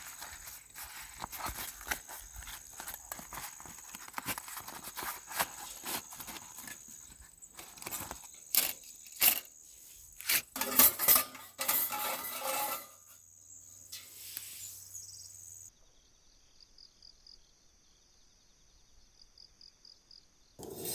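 Clinks, taps and knocks of small hard objects being handled, the loudest bunched together about halfway through, then a much quieter stretch near the end.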